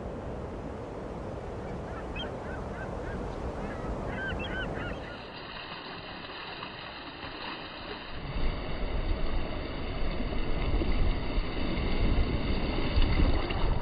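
Surf and wind noise by the sea, with a brief cluster of short bird calls about two to five seconds in. The noise grows louder and gustier from about eight seconds in.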